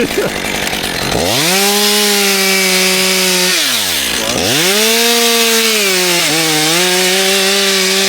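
Chainsaw at full throttle cutting wood. It revs up about a second in, drops off briefly around four seconds in, then revs up again and holds, dipping slightly under load in the cut.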